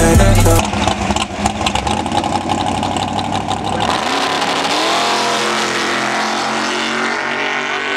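Ford Falcon drag car's engine running loud and rough at the start line, with a crackling exhaust. About four seconds in, the engine note rises sharply as the car launches, then holds a steady high pitch as it pulls away down the strip.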